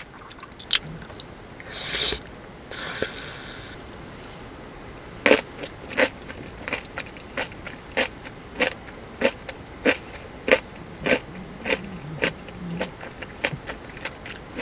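Close-up chewing of crisp food: steady, rhythmic crunches a little under two a second, starting about five seconds in after a couple of short rustles.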